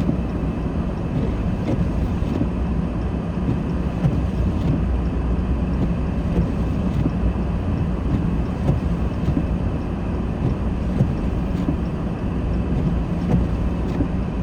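Steady low rumble of a car driving on a snow-covered road, heard from inside the cabin: engine and tyre noise with no sharp events.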